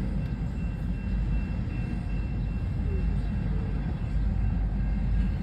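Long freight train rolling past, a steady low rumble.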